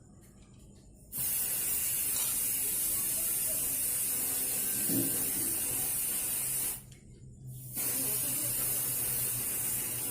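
Pressurised spray hissing in two long, steady bursts, the first about five and a half seconds long and the second starting after a break of about a second; a low hum runs beneath.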